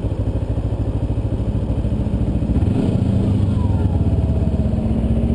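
2009 Kawasaki Ninja 250R's parallel-twin engine running under way. About two and a half seconds in, its note gets fuller and a little louder.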